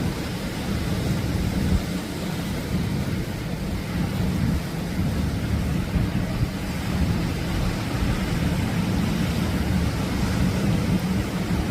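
Atlantic surf washing on a beach, a steady rushing noise, with wind rumbling on the microphone.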